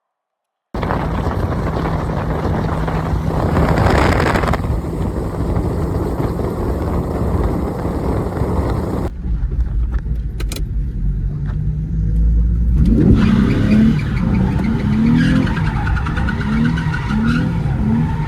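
Nissan 350Z's VQ35 V6 engine running hard under drifting, starting abruptly just under a second in. In the last few seconds the engine pitch rises and falls repeatedly as the throttle is worked.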